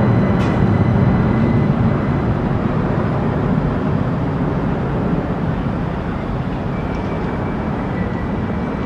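Train rumbling past or pulling through the station, a steady low rumble with a faint high whine that slowly fades.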